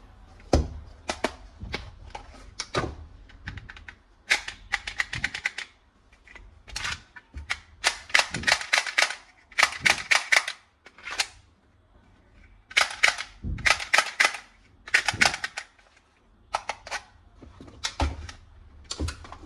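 Toy gun firing in repeated bursts of rapid sharp clicks, each burst lasting about half a second to a second, with short pauses between bursts.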